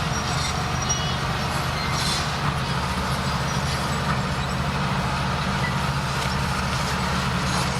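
Heavy earthmoving machine's engine running steadily with a deep drone, with a few light clanks over it.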